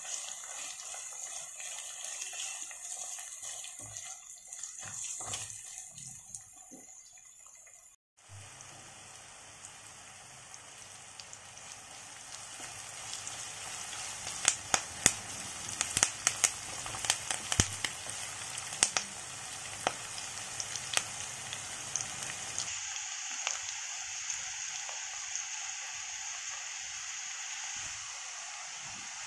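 Chopped onion, carrot and capsicum sizzling in hot oil in a nonstick wok, a steady hiss. Through the middle stretch the spatula scrapes and taps against the pan in a run of sharp clicks.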